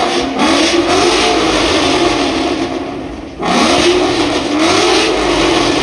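Car engine revving hard in two long pulls, its pitch climbing and wavering, with a brief drop in level a little past three seconds in before it revs again.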